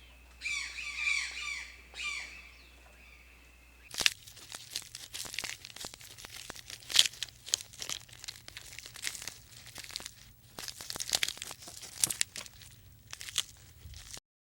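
Short, falling bird calls repeated quickly for about four seconds. Then, after a cut, a long run of irregular crunching and crackling clicks.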